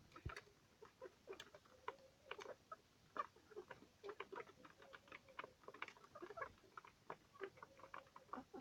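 Baladi chickens pecking, a steady scatter of quick, faint taps mixed with short soft clucks.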